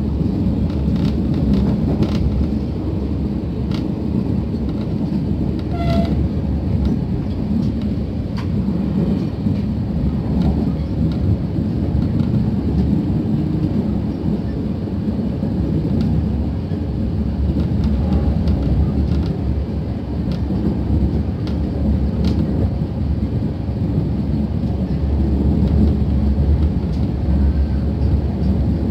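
Steady low rumble of a passenger train running at speed, heard from inside the carriage, with a few faint clicks over it.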